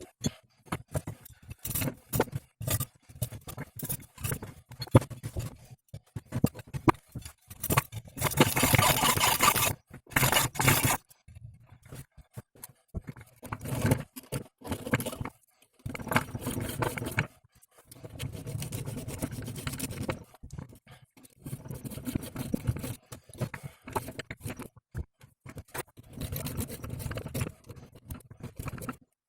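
Metal parts and hand tools being worked during a propeller-shaft universal-joint replacement: irregular clinks, knocks and scraping, with a steady noisy burst lasting about two seconds around eight seconds in.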